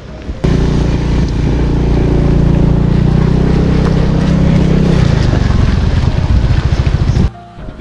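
An engine running loudly and steadily, then dropping to a lower, pulsing run about five seconds in, before cutting off abruptly.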